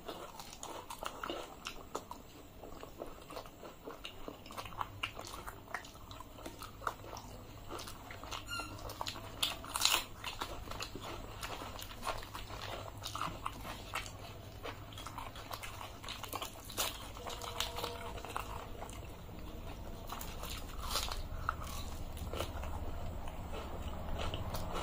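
Close-up mukbang eating sounds of two people eating luchi with ghugni and fried potatoes by hand: wet chewing and lip-smacking, with soft tearing of the fried bread and scattered small clicks.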